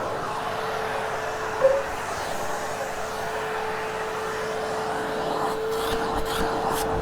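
Hoover Hushtone vacuum cleaner running steadily with its hose, a constant motor whine over rushing air. A brief louder blip about one and a half seconds in.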